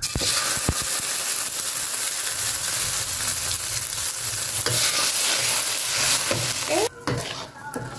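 Ground spice paste hitting hot oil in a wok, sizzling loudly at once and frying steadily while a metal spatula stirs and scrapes it around. The paste is being fried until fragrant, before the potatoes and coconut milk go in. The sizzle drops away about seven seconds in.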